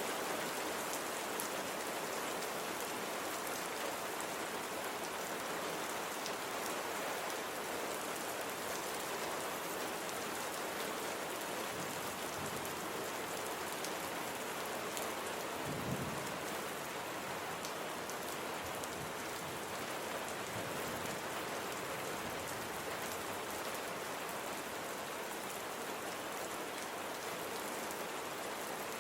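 Steady rain falling on a surface. About halfway through comes a brief low thump.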